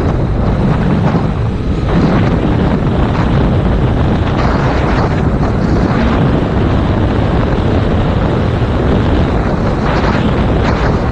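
Heavy wind buffeting on a GoPro's microphone at riding speed on a Yamaha MT-07 motorcycle, a loud, steady rumble with the bike running beneath it.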